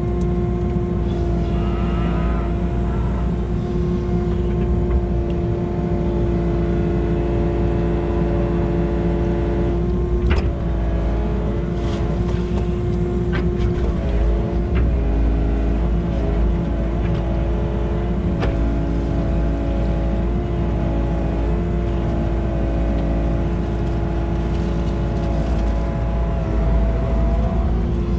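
Tractor engine running steadily while digging out pond mud, with a few sharp knocks from the working equipment.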